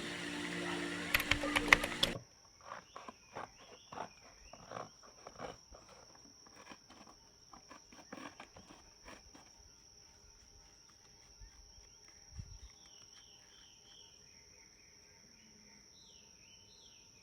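Music cuts off about two seconds in, leaving a steady high insect trill like a cricket's, with scattered knocks and clicks over the next several seconds and short chirping bird calls near the end.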